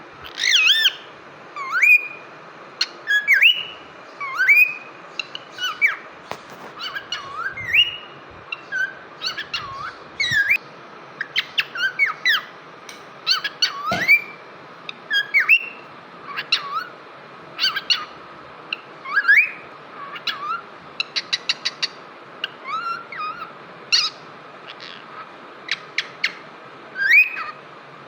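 Pet cockatiel singing: a long string of whistled notes that swoop up and down, with a quick run of short notes a little past the middle.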